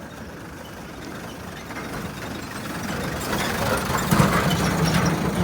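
A motor vehicle's engine running and growing steadily louder as it draws near, loudest in the second half.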